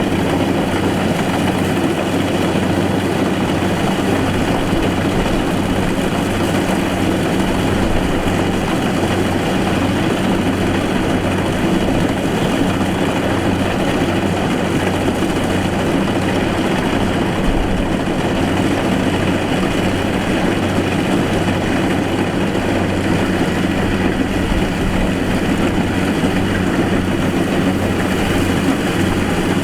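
Rice combine harvester's diesel engine running steadily, with the machine's constant mechanical clatter and hum.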